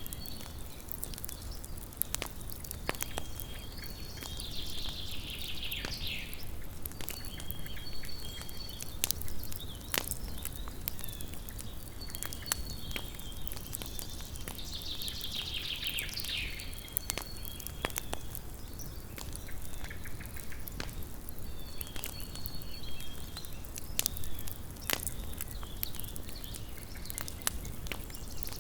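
Small wood campfire crackling, with many sharp pops and snaps at irregular intervals. Behind it, short high calls recur every few seconds. Longer falling high calls come about five seconds in and again around fifteen seconds in.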